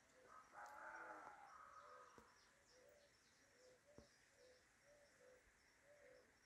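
Faint bird calls: a soft, short note repeated about twice a second, with a brief louder call about half a second in.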